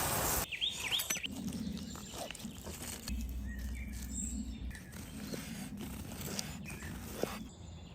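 Sizzling from food frying cuts off about half a second in. Quiet outdoor ambience follows, with scattered light taps and clicks and a few short bird chirps.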